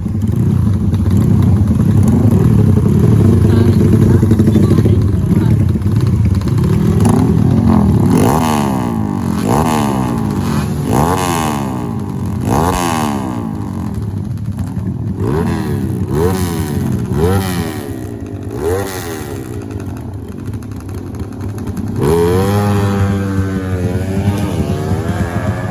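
Off-road motorcycle engines revving on a wet race track. From about eight seconds in, the pitch rises and drops back again and again, roughly every second and a half, and near the end it climbs in one long rising rev.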